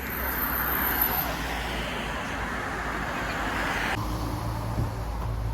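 Road and running noise of a moving vehicle: a steady rushing hiss that changes abruptly about four seconds in to a duller, lower engine hum.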